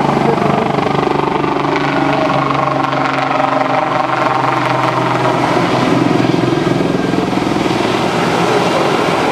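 A helicopter flying overhead, its engine and rotors running steadily with a fast rotor beat.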